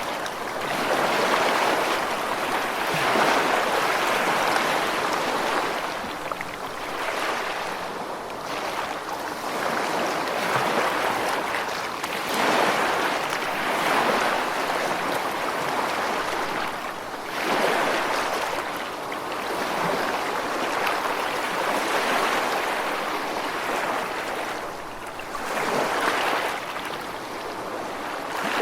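Ocean waves washing onto a shore, a steady rush that swells and eases every few seconds as each wave breaks and draws back.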